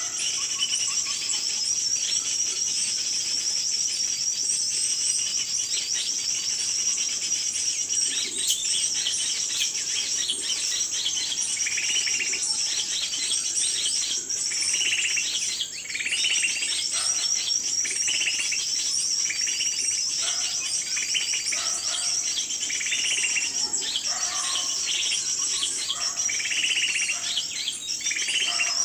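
Small birds chirping in a fast, unbroken high-pitched chatter, with shorter, lower calls breaking in every second or two.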